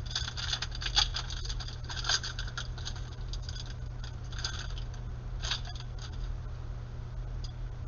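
Trading cards being flipped and slid against one another by hand: a scatter of light, scratchy flicks, busiest in the first two seconds and again about five and a half seconds in, over a low steady hum.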